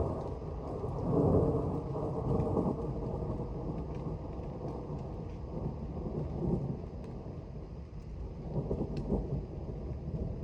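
Thunder rumbling from an approaching thunderstorm in low rolling swells, loudest about a second in and swelling again twice later, with light rain ticking.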